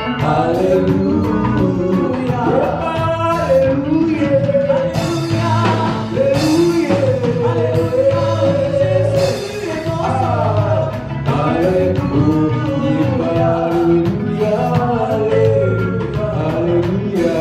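Praise and worship music: singing over a band, with a steady beat running throughout.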